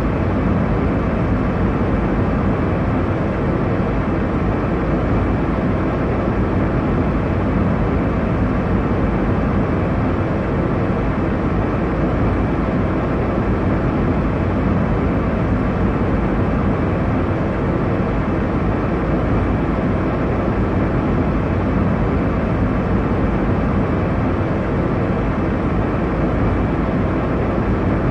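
Airliner cabin noise in flight: a steady, even rush of engine and airflow noise, deep and full, with no changes.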